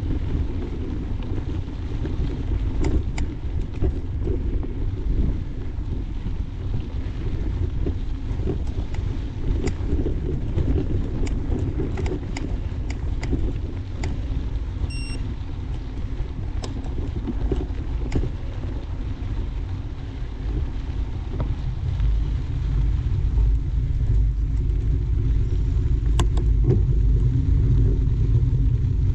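Mountain bike rolling along a dirt trail: a steady rumble of tyres and wind on the microphone, with scattered clicks and rattles from the bike over bumps. The rumble grows louder in the last several seconds.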